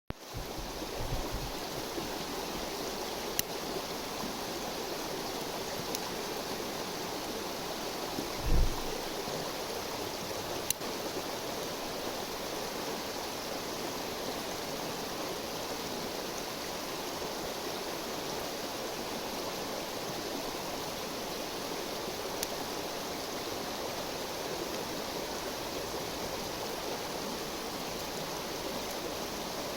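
River water flowing steadily, with a few sharp clicks scattered through it and one brief low thump about eight seconds in.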